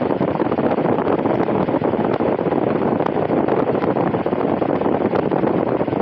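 Cadence electric fan running steadily, its airflow rushing onto the microphone as a loud, even wind noise.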